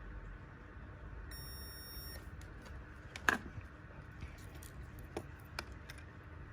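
Scattered small clicks and taps, typical of hand tools on a small device, the loudest about three seconds in. A brief high electronic tone sounds about a second in, over a low steady hum.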